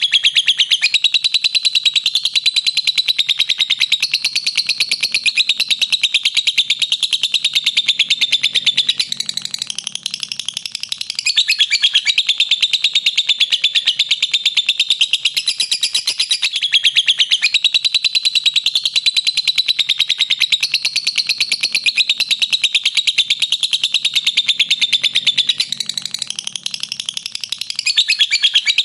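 Lovebird giving its long, unbroken 'ngekek' chatter: a high-pitched, very rapid run of notes. It grows softer for a couple of seconds about ten seconds in and again near the end.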